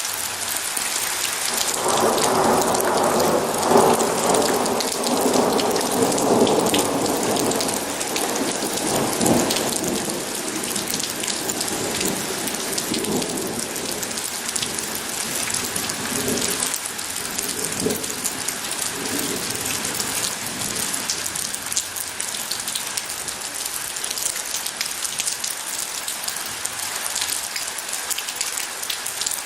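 Heavy rain falling steadily, with a long roll of thunder that swells about two seconds in and rumbles away over the next several seconds, followed by fainter distant rumbles.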